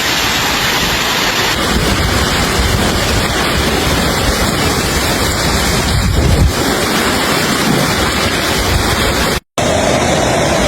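Heavy storm noise: a loud steady roar of wind and rain, with gusts buffeting the microphone in low rumbles. It cuts out abruptly near the end and comes back with a slightly different tone.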